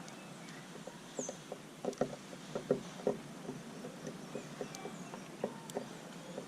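Small birds at a seed feeder: a string of irregular soft pecking taps on the feeder, with a few faint high chirps and a short falling whistle.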